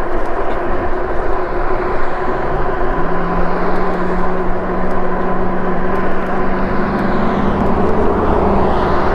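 Ride noise from a Lectric e-bike on a bumpy sidewalk: steady wind rush and tyre rumble, with a low hum that comes in about three seconds in and holds steady.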